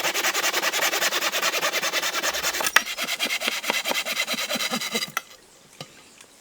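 Hand tool scraping or rasping on wood in fast, even strokes, with a sharp click a little under three seconds in; the strokes thin out and stop about five seconds in.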